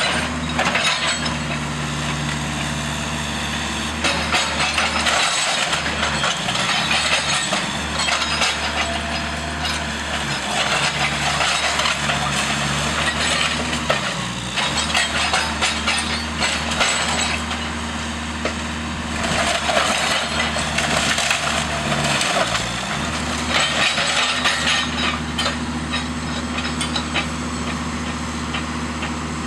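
A heavy machine's engine runs steadily, its pitch dipping briefly under load several times, while timber of the house cracks and splinters in repeated bursts of a few seconds each as the structure is torn apart.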